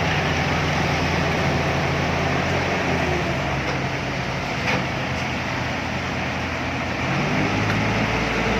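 Truck engine running steadily; its pitch shifts a couple of times, with a single short knock about five seconds in.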